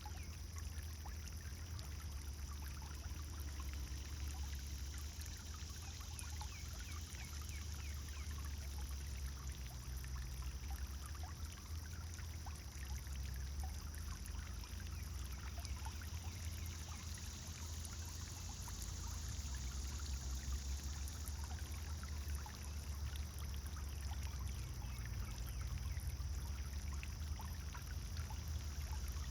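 Pond fountain water splashing and pouring steadily, with a steady low rumble underneath.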